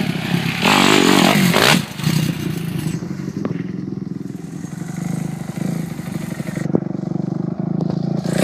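Dirt bike engine revving hard for about a second, its pitch sweeping, then running at lower revs, with a few sharp clicks or knocks.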